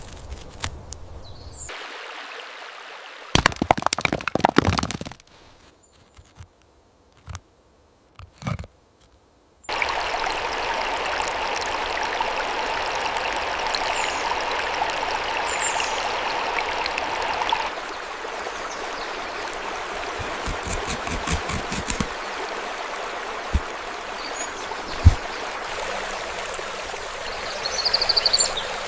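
Running water, like a stream, making a steady hiss that sets in about a third of the way through and eases a little about two-thirds in. Before it come a few loud crackling bursts and a near-silent gap; scattered clicks and brief high chirps sound near the end.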